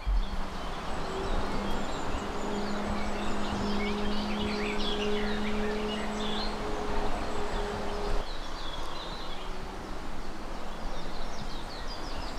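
Woodland birds chirping and singing, several at once, over a light outdoor hiss. A steady low hum runs underneath and stops about eight seconds in.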